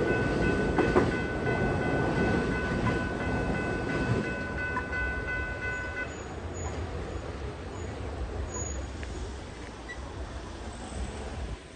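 A train running past a level crossing and fading away, its rumble dying down steadily. A steady high ringing tone sounds over it and stops about six seconds in.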